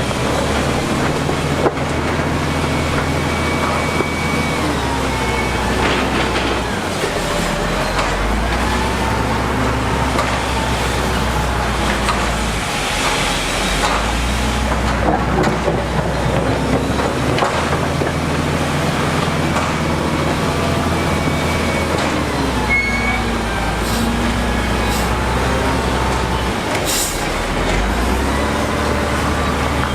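Heavy diesel construction machinery running, its engine note shifting up and down in steps, with wavering high metallic squeals over it.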